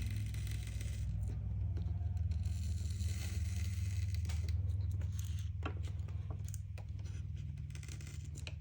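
Razor blade scraping continuously across LCD glass, shaving off old polarizer adhesive that has crystallized, probably with acetic acid crystals from the film's breakdown, in a rapid, gritty rasp.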